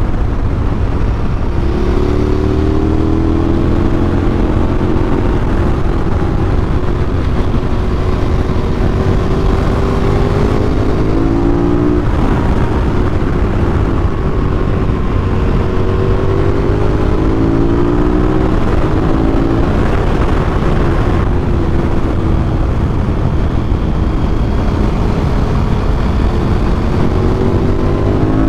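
Adventure motorcycle engine running under way, its pitch rising as it accelerates several times, over a steady rush of wind noise.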